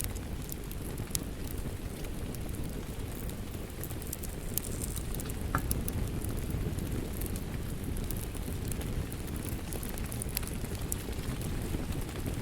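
Steady rain ambience mixed with a crackling wood fire: a continuous dense low hiss of rain with scattered sharp pops and crackles from the fire.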